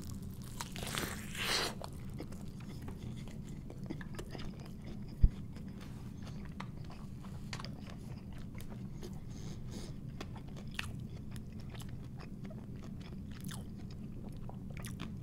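Close-miked biting into and chewing a thick bacon cheeseburger, with small wet mouth clicks and crunches. A steady low hum runs underneath, and a single sharp thump comes about five seconds in.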